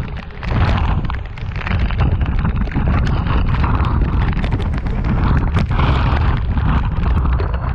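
Storm-force wind buffeting the microphone in a heavy rumble, over a steady rush of heavy rain with many small sharp ticks.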